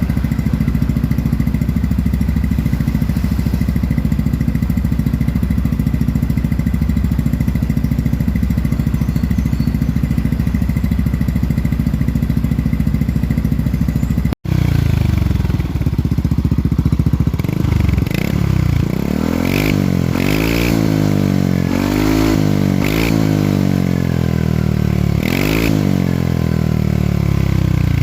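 Yamaha NMAX scooter's single-cylinder engine running through a Scorpio Z exhaust with an enlarged rear outlet, idling steadily. After a brief break about halfway through, it is revved up and let fall back several times in quick succession.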